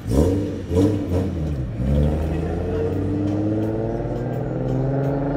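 Car engine revved in a few quick blips, then pulling away with its pitch rising steadily as it accelerates.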